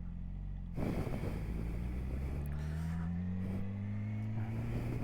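A vehicle engine running low and steady, with a second engine note slowly rising in pitch from about a second in.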